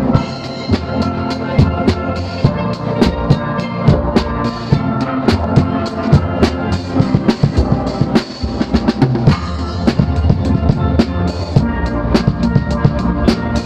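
A steel pan band playing, with many pans ringing out notes over drums that keep a steady, driving beat.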